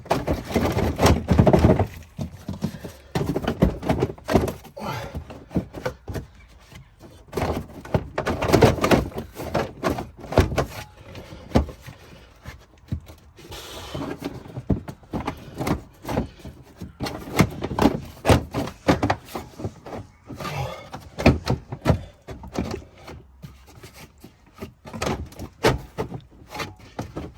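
Plastic wheel-arch liner of a Porsche 911 being pulled and flexed by hand to free it, with irregular knocks, clatters and scraping as it catches on its fixings.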